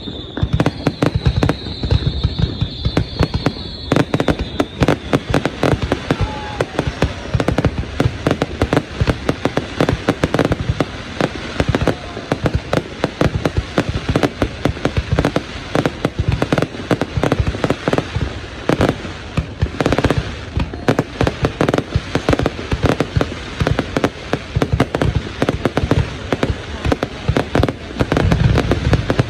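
Aerial fireworks display going off in a dense, rapid, unbroken stream of bangs and crackles. A thin high tone is heard during the first few seconds.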